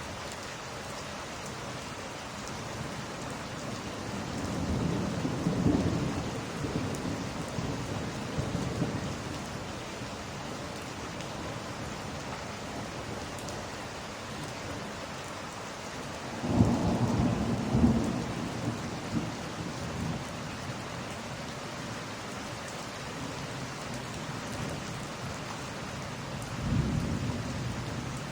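Steady rain with rolling thunder: a low rumble builds about four seconds in, a louder, sharper clap and rumble comes past the middle, and a shorter rumble near the end.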